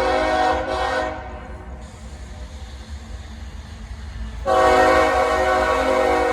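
A locomotive's Nathan K5HL five-chime air horn on a CSX GE ES44AH sounding a chord: a blast that cuts off just after the start, a short toot about a second in, then a long blast from about four and a half seconds on. A steady low rumble runs underneath.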